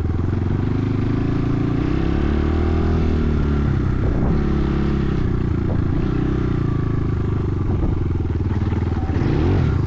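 Enduro motorcycle engine running under way, its pitch rising and falling again and again with the throttle.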